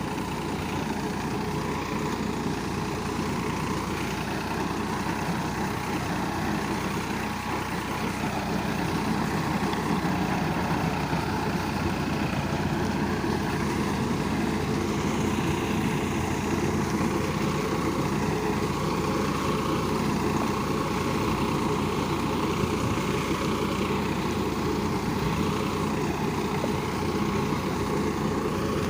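Farmtrac 45 EPI tractor's diesel engine running steadily under load while working a rotavator.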